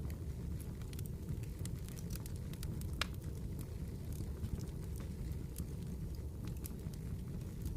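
Campfire burning, with scattered sharp crackles and pops over a steady low rumble of the flames; one louder pop about three seconds in.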